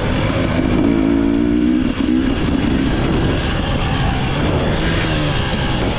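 Motocross bike engine running under throttle, its pitch rising and falling.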